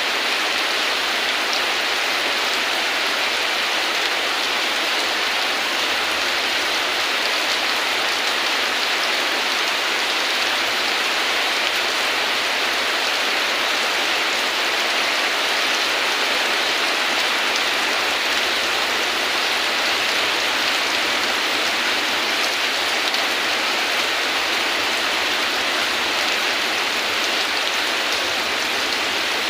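Heavy rain falling steadily, an even hiss with no thunder or other breaks.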